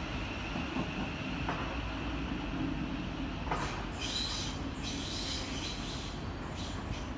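Thameslink electric multiple-unit train pulling away along the track, a steady rumble of wheels on rails. A brief high wheel squeal comes about halfway through.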